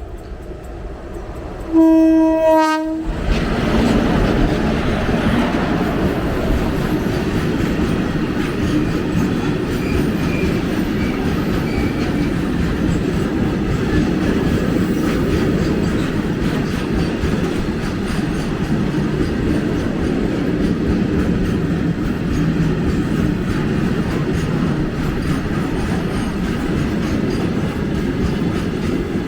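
WAG-7 electric locomotive's horn sounding once for about a second, then the steady rumble and wheel clatter of a long loaded coal freight train running past.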